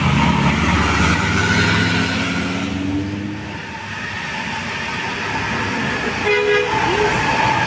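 Heavy road vehicle's engine labouring up a steep climb, its pitch rising slowly over the first three seconds and then fading as it passes. Short horn toots sound near the end.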